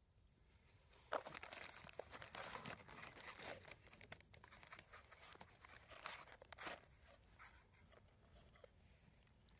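Faint rustling and crackling, a run of small irregular clicks from about one second in to about seven seconds in, then near silence.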